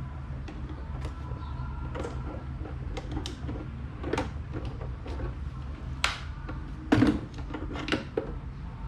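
Irregular clicks and knocks from tools and small parts being handled while an electric fan is taken apart, the loudest knock about seven seconds in, over a steady low hum.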